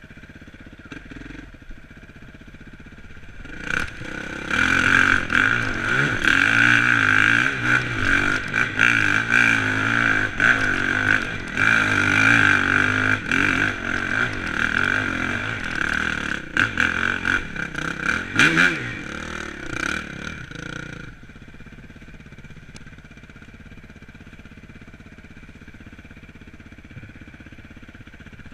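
Suzuki RMX dirt bike engine heard from on the bike: running quietly at first, then revving hard and unevenly from about four seconds in while the bike climbs a steep leaf-covered slope, with clatter over the ground. About twenty seconds in it drops back to a low, steady note.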